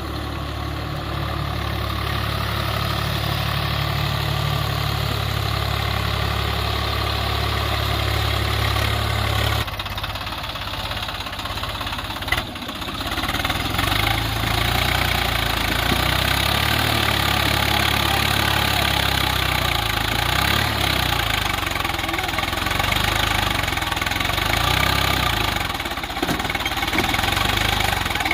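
Swaraj 744 FE tractor's three-cylinder diesel engine running steadily. After about ten seconds the sound shifts and wavers, with a single sharp knock soon after.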